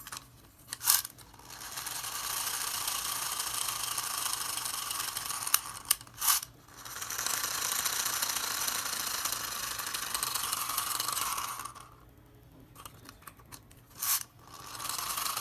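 Toy helicopter's geared mechanism whirring in two steady runs of several seconds each, with a few sharp clicks between them.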